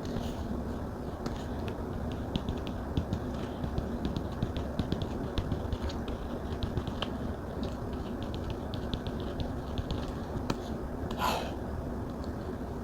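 A Samsung S Pen stylus tapping and writing on a Galaxy Tab's glass screen: a run of quick, light clicks, with a soft swish about 11 seconds in, over a steady low hum.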